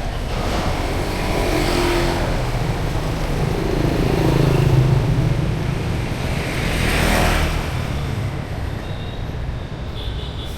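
Street traffic: a motor vehicle passes close by about halfway through, its engine note dropping in pitch as it goes past. A second vehicle passes with a swell of tyre and engine noise a couple of seconds later.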